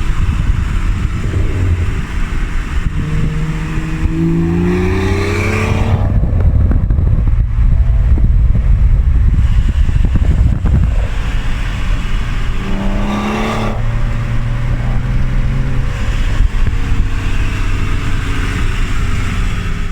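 Car engine and exhaust under way, accelerating twice: the engine note climbs in pitch about four seconds in and again about thirteen seconds in, with a steady low rumble between.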